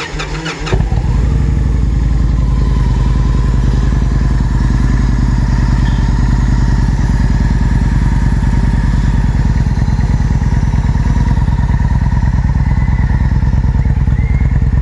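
A 2009 Victory Hammer S V-twin motorcycle engine on a cold start catches about a second in and then idles loudly and steadily.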